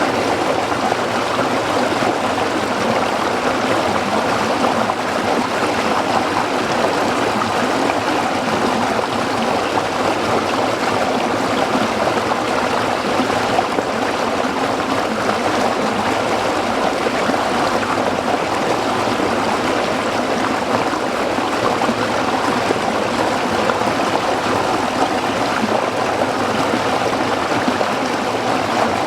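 A small stream flowing and babbling over rocks, a steady, even rush of water.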